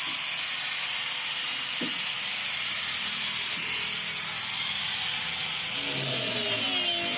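Steady high-pitched hiss, with a faint knock about two seconds in; music with plucked-string notes comes in near the end.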